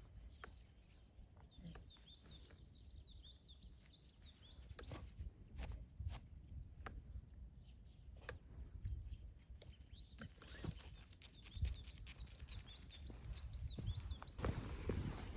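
Songbird singing outdoors: two long runs of quickly repeated high notes, the first a few seconds long early on and the second about two-thirds of the way through, over scattered short clicks. A steady hiss rises near the end.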